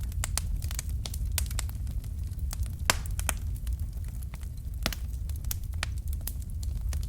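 Fire in a fireplace crackling, with irregular sharp pops over a steady low rumble. One louder pop comes about three seconds in.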